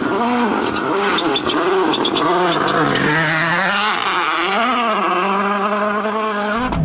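Rally car engine revving hard at speed, its pitch climbing and dropping again and again as the car accelerates and shifts, with scattered sharp clicks.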